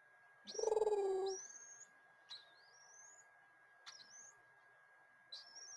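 Young cockatiel giving short, thin chirps that rise in pitch, about one every second and a half. A lower, louder hum-like voice comes in briefly about half a second in.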